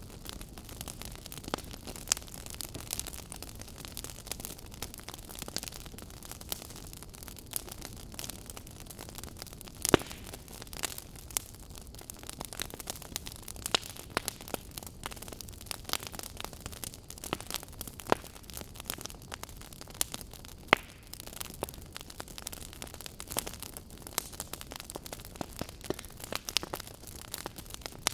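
Wood fire crackling: a steady hiss studded with frequent sharp pops and snaps, the loudest about ten seconds in and again about twenty-one seconds in.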